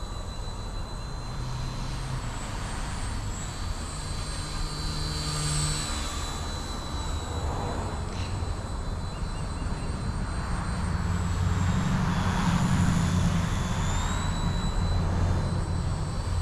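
Eachine E160 micro RC helicopter in flight: a steady high electric-motor and rotor whine that dips and rises as the pilot works the throttle, stepping up in pitch near the end, over a low rotor rumble that grows louder in the second half.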